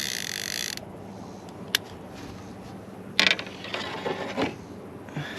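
Baitcasting fishing reel's clicker (line-out ratchet) clicking: a rapid buzzing rattle that stops abruptly about a second in, followed by a few separate clicks and knocks from the reel being handled.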